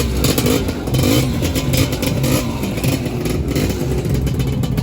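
Several two-stroke Lambretta scooter engines running and revving as they ride off, their pitches rising and falling over one another.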